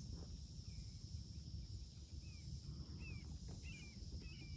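A small bird giving short, faint chirps, sparse at first and then about one every half second from a little past halfway in, over a steady high drone of insects.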